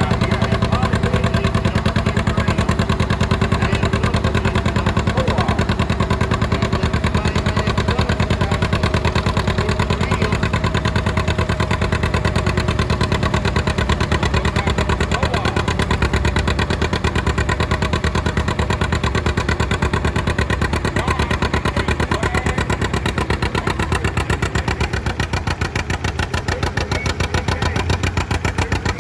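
Antique tractor engine running steadily under load in a tractor pull, with a rapid, even firing beat. It eases slightly about two-thirds of the way in, then builds again near the end.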